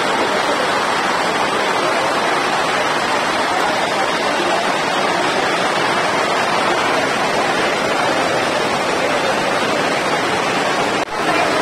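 Heavy rain falling, a loud steady hiss heard from under a tent canopy. It drops out for an instant near the end.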